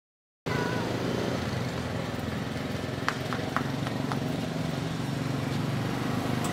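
Silence for the first half second, then street traffic: a car engine running steadily close by, with a few sharp clicks about three to four seconds in.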